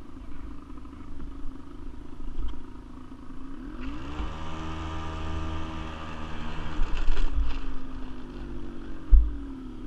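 Quad bike (ATV) engine idling, then revving up about four seconds in, holding the higher revs for about three seconds and dropping back to idle. A dull thump near the end.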